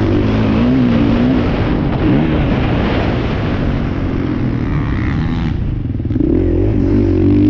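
Motocross dirt bike engines revving, their pitch rising and falling with the throttle. The sound dips briefly about six seconds in, then picks back up.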